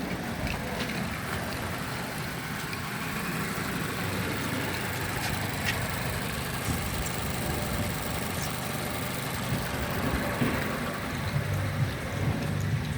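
A 2022 Mazda CX-5's 2.5-litre PY petrol four-cylinder engine idling steadily and smoothly, with no revving. A few light clicks come near the end.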